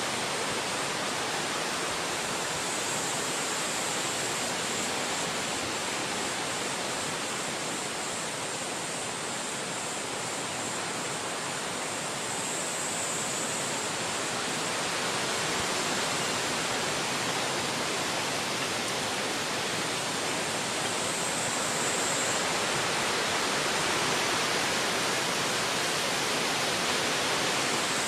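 Wind blowing through forest trees: a steady rushing of leaves and branches that swells a little in the second half.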